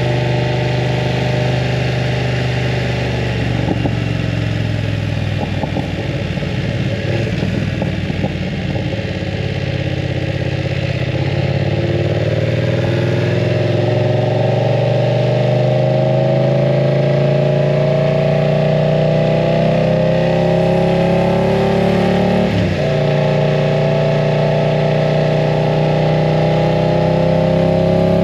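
BMW F900 R's parallel-twin engine through a full aftermarket exhaust, ridden on the road: it runs unevenly for a while, then pulls with steadily rising revs. About two-thirds of the way in the pitch drops sharply at an upshift, and it climbs again.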